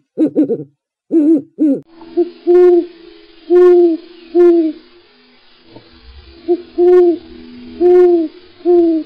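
Owl hooting: a few quick short calls, then a series of about seven low, even hoots over a faint background hiss.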